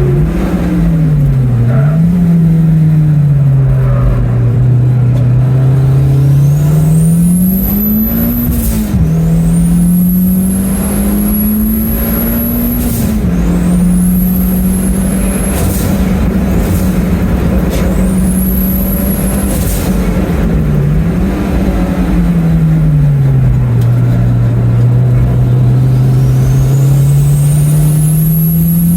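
Toyota MR2's big-turbo 3S-GTE turbocharged four-cylinder engine at full throttle on track, with the engine note rising and falling through the gears. A high turbo whistle climbs and holds about five times, each time cutting off suddenly with a short rush of air as the throttle closes.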